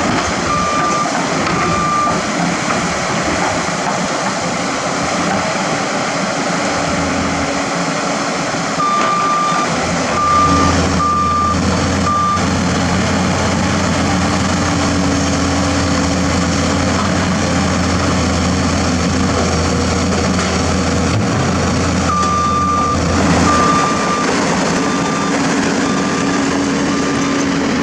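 Heavy diesel construction machinery running steadily, with a reversing alarm beeping in short runs: right at the start, again around the middle, and through the last few seconds. The engine's low rumble grows heavier from about a third of the way in until shortly before the last run of beeps.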